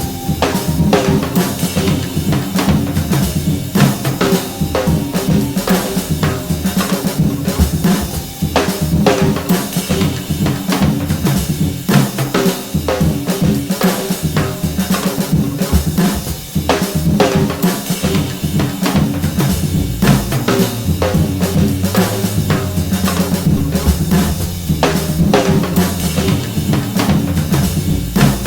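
Music: a drum kit played busily with snare, rimshots and bass drum over steady low sustained notes. A deeper bass note comes in about two-thirds of the way through.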